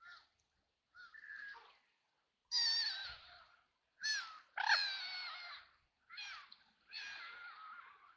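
Ducks quacking: a run of about seven harsh, raspy quacks with short gaps between them, the loudest about two and a half and five seconds in.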